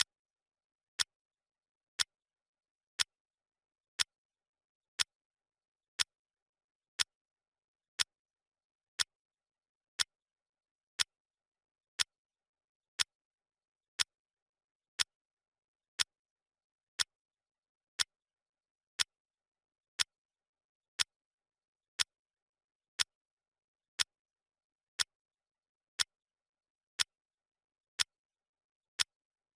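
Clock ticking once a second, each tick a single sharp click with silence between.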